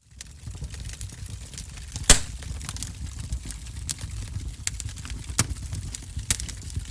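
Wood fire crackling in a fireplace: a low steady rumble of the flames with scattered sharp pops, the loudest about two seconds in.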